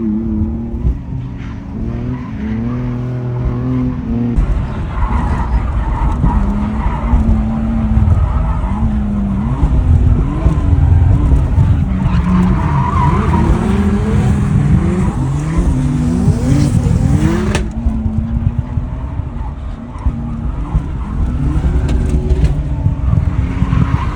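Turbocharged BMW E30 drift car's engine revving up and down again and again under hard driving, with tyres skidding. A loud high hiss rides along through the middle and cuts off suddenly about two-thirds of the way through.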